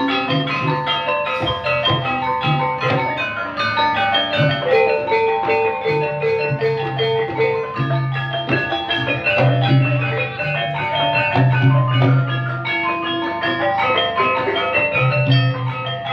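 Ebeg dance accompaniment played live: an ensemble of tuned gamelan-style percussion striking quick, busy melodic patterns over drums and repeated deep bass notes.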